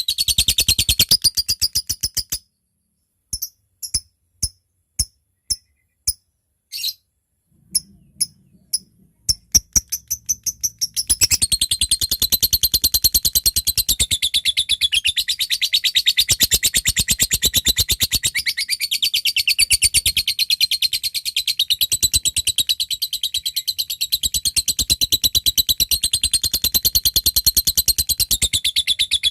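A lovebird in full song. First a brief rapid chatter, then a run of separate sharp ticks about two a second (the 'ngetik' call). Then comes a long unbroken rapid chatter (the 'ngekek panjang'), the call a lovebird uses to answer and challenge a rival.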